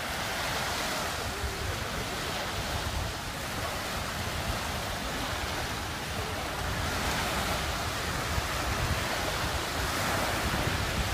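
Wind buffeting the microphone over the wash of waves on open water, a steady rushing noise with a fluttering low rumble that grows a little louder in the second half.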